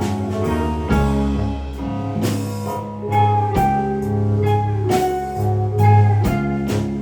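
A live band playing an instrumental passage, with electric guitar, bass and drum kit keeping a steady beat.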